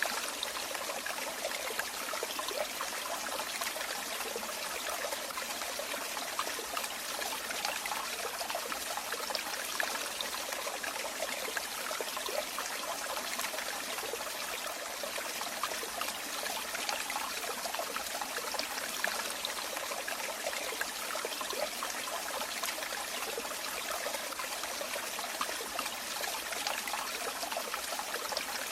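Running water trickling and splashing steadily, with many small splashes in an even rush.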